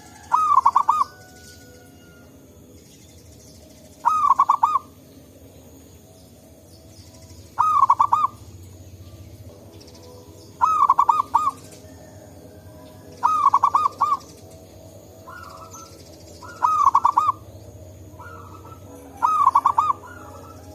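Zebra dove (perkutut) cooing: seven short bursts of rapid, quavering coos, one every three to four seconds, with fainter answering coos between the later bursts.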